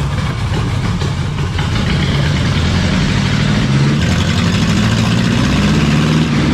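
Ford Crown Victoria's V8 engine running steadily at idle while popcorn is being sucked in through its intake.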